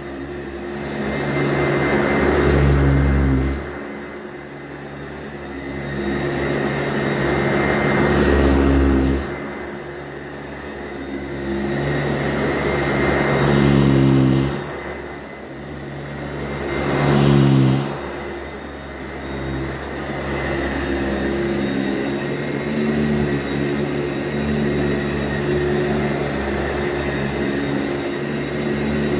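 Sanitaire SC684G upright vacuum cleaner running over carpet, its motor hum and suction hiss swelling and easing every four or five seconds, then steadier toward the end.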